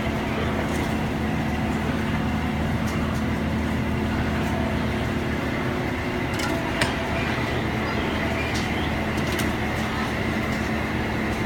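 Machinery running with a steady hum, with a few light clicks and knocks over it, one sharper about two thirds of the way through.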